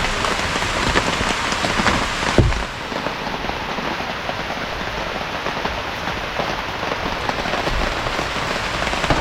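Heavy rain falling, with dense close drops pattering on a surface. There is one dull knock about two and a half seconds in, and after it the rain sounds a little duller.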